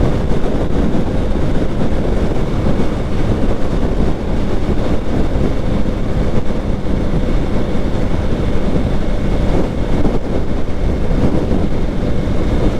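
Motorcycle riding at speed, recorded on an action camera: wind rushing over the microphone, with a steady engine drone underneath.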